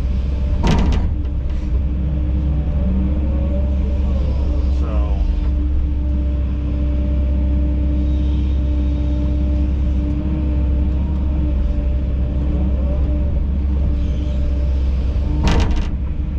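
Kobelco SK210LC-10 excavator's diesel engine running steadily under load with a low rumble and a steady hum, with two sharp knocks, one about a second in and one near the end.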